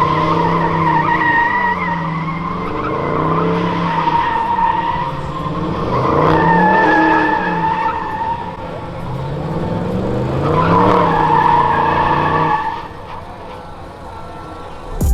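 A car doing a burnout: tyres squealing steadily while the engine revs up and down again and again. It dies down about thirteen seconds in.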